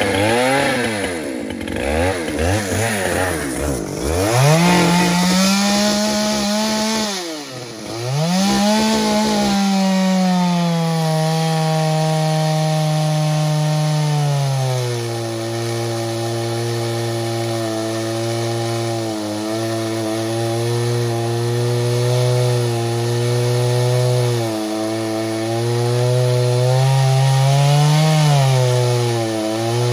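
Chainsaw running: revved up and down in quick blips for the first few seconds, then held at high speed. From about halfway it cuts into the tree, its speed dropping and staying lower under load, with brief dips near the end.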